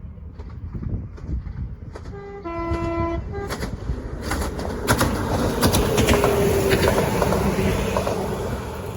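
A train sounds its horn for about a second and a half, a single held note with a brief higher note at its start and end. It then passes close by, its rushing rumble swelling to a peak and fading.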